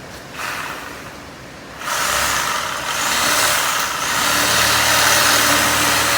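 A power tool starts up about two seconds in and runs steadily, cutting through the plugger's steel tow bar with a loud hiss, a low motor hum joining a couple of seconds later.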